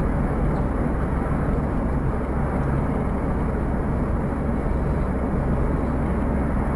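Steady road and engine noise of a moving car, heard from inside the cabin as a constant low rumble.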